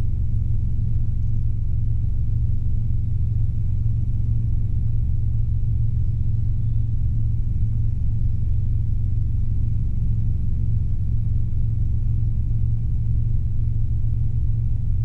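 Robinson R22 helicopter's engine and rotors giving a steady low drone under climb power, heard from inside the cockpit.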